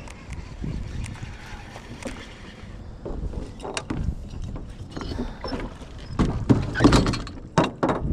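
Irregular knocks and clatter in a small fishing boat over water and wind noise, getting louder and busier in the second half.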